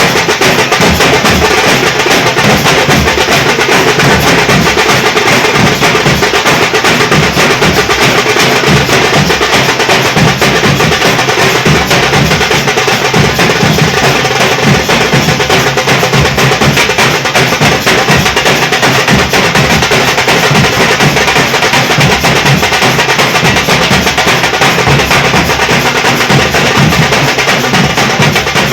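Nashik dhol troupe drumming, a loud, fast, dense beat that keeps going without a break.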